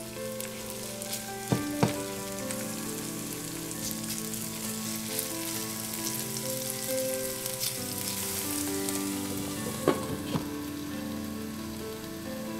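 Grated potato frying in oil in a nonstick pan: a steady sizzle, with a few sharp knocks about a second and a half in and again around ten seconds in.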